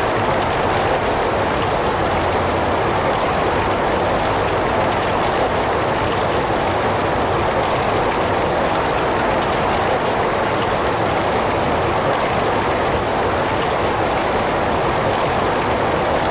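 Heavy rain falling steadily, an even hiss of rain without breaks.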